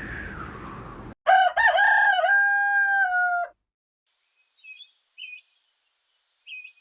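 A single long crowing bird call, wavering at first and then held for about two seconds, dropping slightly before it cuts off. A few short, faint chirps follow.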